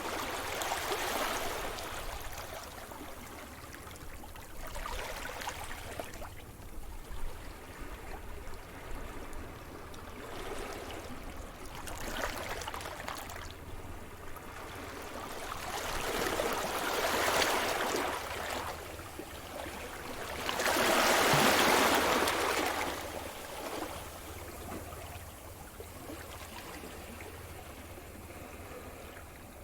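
Sea surf: waves breaking and washing up the shore in irregular surges, the two loudest about two-thirds of the way through, with the wash draining back between them.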